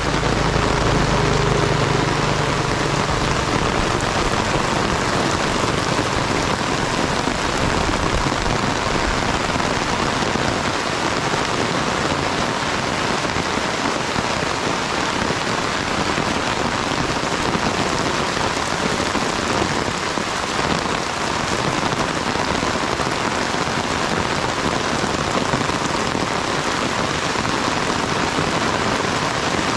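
Steady rain falling, an even hiss. A low hum underneath fades out about three seconds in.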